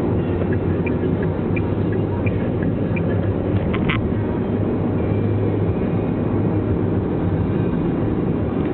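Toyota Passo Sette's 1.5-litre four-cylinder engine and road noise while driving, a steady low drone. A few light ticks come at even intervals in the first three seconds, then a short clicking about four seconds in.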